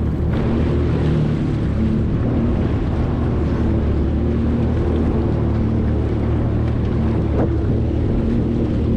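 Jet ski engine running at a steady pace, with wind buffeting the microphone and water rushing past.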